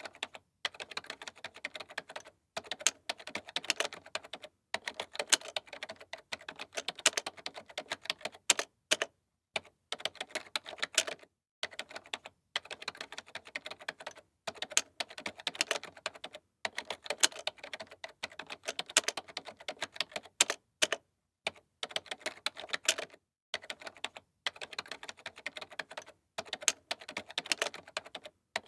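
Typing on a computer keyboard: rapid runs of key clicks in bursts of a second or two, broken by short pauses, with an occasional louder key strike.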